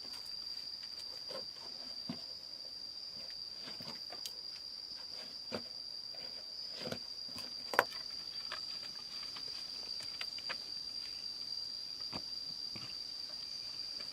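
A steady high-pitched insect drone, with scattered light clicks and knocks over it; the sharpest knock comes about eight seconds in.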